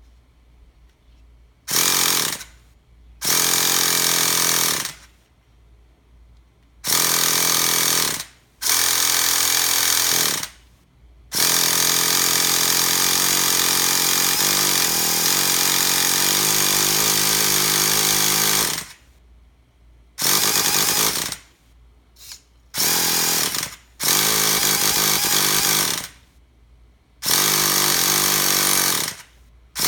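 Starter spinning a Traxxas T-Maxx 3.3's nitro engine in about ten separate cranking bursts, each lasting a second to several seconds with pauses between them. The longest runs about seven seconds near the middle. The engine does not catch: it won't start.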